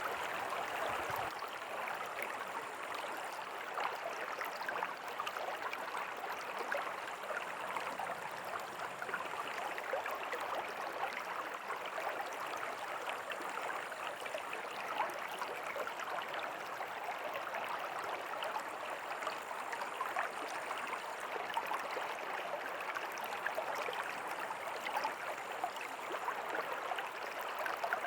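River water flowing steadily, a continuous rushing and babbling.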